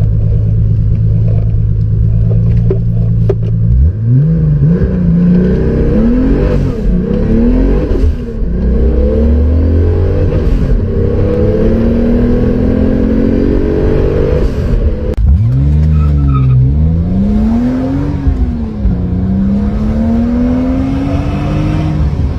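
BMW M5 engine running steadily, then about four seconds in accelerating hard, its pitch climbing and dropping back at each upshift through several gears. A sudden break about fifteen seconds in gives way to a second hard acceleration with rising pitch and gear changes.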